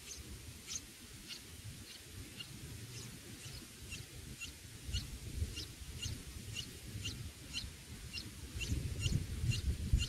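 A small bird's short high chirp repeated evenly, about twice a second, over a faint low rumble.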